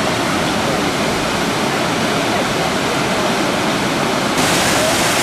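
Waterfalls of the Big Sioux River: a steady, loud rush of water cascading over rock. About four seconds in it jumps suddenly a little louder and brighter.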